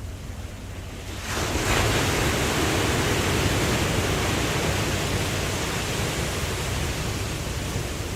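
Ocean wave breaking a little over a second in: a rush of surf that swells quickly, then slowly washes away over a steady low rumble.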